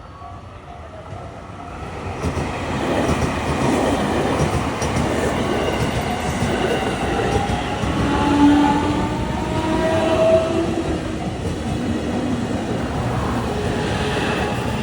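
JR Kyushu electric commuter train moving past a station platform: a steady rumble of wheels on rail that swells in about two seconds in and holds, with a faint motor whine over it.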